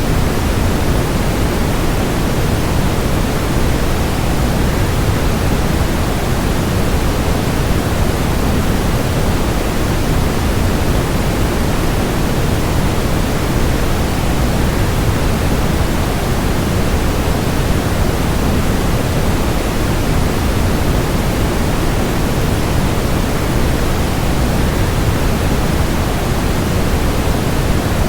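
Steady, even rushing noise of a waterfall blended with white noise, heaviest in the low end and unchanging throughout.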